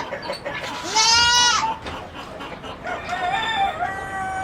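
A rooster crowing loudly about a second in, followed by another farm animal's longer, wavering call from about three seconds in.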